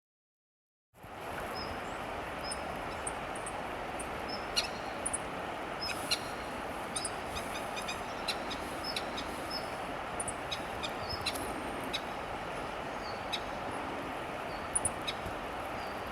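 Crested kingfisher calling in short, sharp, scattered notes over a steady rushing background like flowing river water, starting about a second in.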